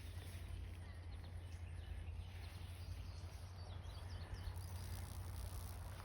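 Outdoor ambience: a steady low rumble, with a quick run of high bird chirps about four and a half seconds in.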